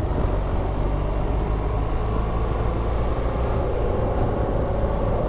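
BMW R1200GSA boxer-twin engine running steadily at cruising speed, with wind and road noise over the bike, and a steady hum that grows a little stronger near the end.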